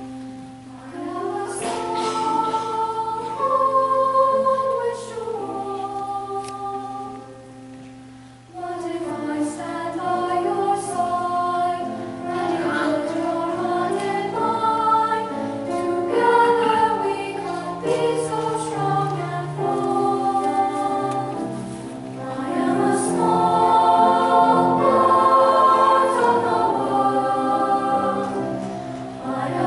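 School choir singing in parts, with long held notes. The singing thins out and quietens a few seconds in, then the full choir comes back in strongly about a third of the way through.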